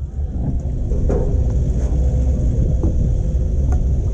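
Boat motor running steadily as the boat pulls away, with a heavy low rumble.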